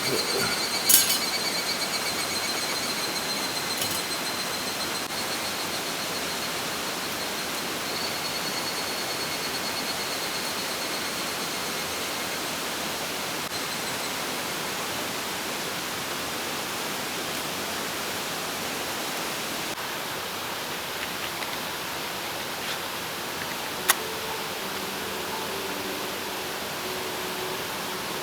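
Steady rush of a mountain stream flowing over rocks, with two sharp clicks, about a second in and again near the end.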